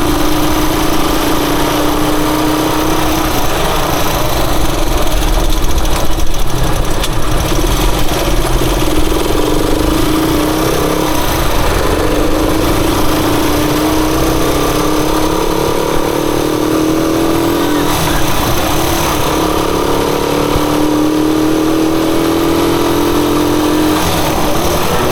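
Rusi Chariot 175 motorcycle engine running under way. Its pitch rises and falls several times as the throttle changes, over a steady rush of noise.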